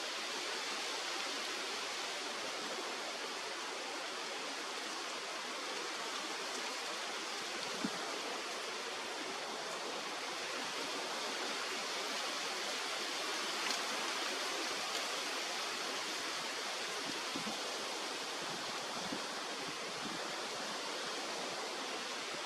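Steady rush of flowing river water, with a couple of faint ticks.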